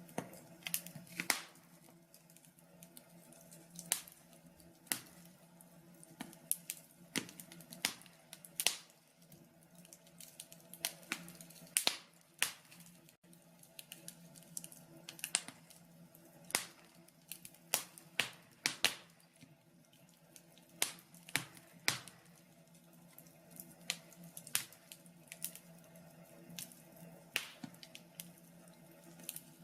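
Wood logs burning in a log burner, crackling with irregular sharp pops, sometimes several close together, over a faint steady low hum.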